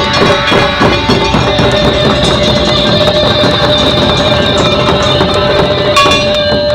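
Loud live music from a Japanese traditional ensemble: taiko drums beating thick and fast with plucked strings, under one long held high note, building toward the end of a piece.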